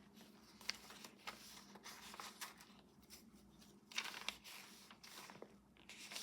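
Faint rustling and soft ticks of paper pages and cards being handled and turned, with a brief louder rustle about four seconds in.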